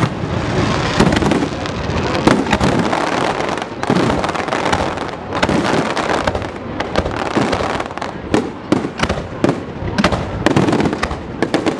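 Aerial fireworks display: a continuous barrage of shell bursts with the bangs overlapping, and more separate sharp cracks in the last few seconds.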